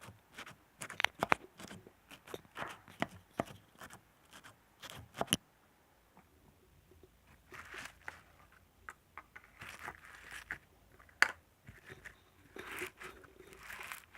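Close-up ASMR trigger sounds made by hand: a quick run of sharp taps and clicks for about five seconds, a brief pause, then rustling and scratching with scattered clicks and one louder click.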